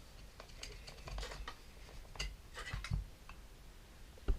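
Light clicks and taps of toy train track pieces being handled and fitted together, scattered irregularly, about eight in all.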